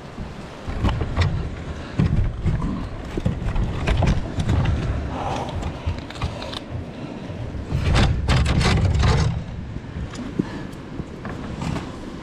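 Wind buffeting the microphone in uneven low gusts, with scattered irregular knocks and scuffs of gear being handled while scrambling over rock.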